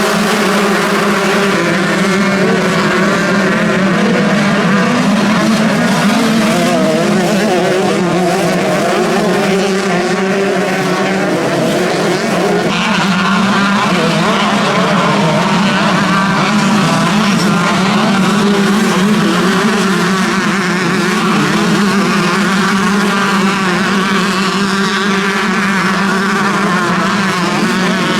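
Several motocross bikes racing, their engines revving up and down over one another without a break.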